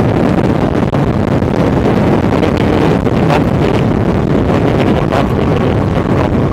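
Wind rushing over the microphone of a moving motorcycle, a steady loud buffeting, with the Kawasaki ZX-6R's inline-four engine running underneath at a steady pace.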